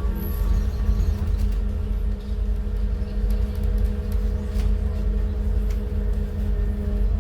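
Scania N280UD CNG double-decker bus running, heard inside on the top deck: a steady low rumble from its gas engine and drivetrain, with a steady hum over it.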